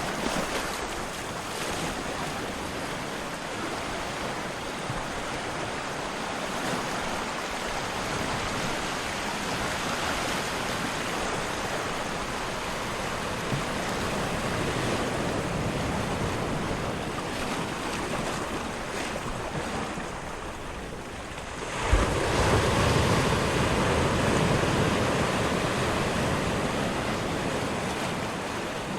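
Ocean surf: a continuous wash of water swelling and ebbing. About 22 seconds in a larger wave breaks with a sudden thump, then washes out over several seconds.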